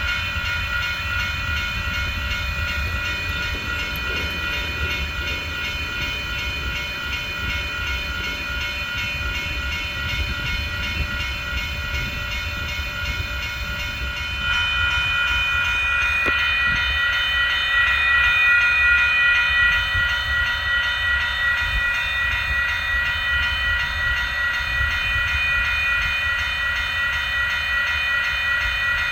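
A train rolling past with a continuous low rumble, overlaid by a steady high-pitched ringing tone that grows louder about halfway through.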